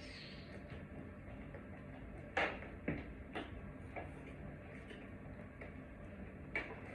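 A few light, separate clicks and knocks of small hardware being handled, over a low steady background hum.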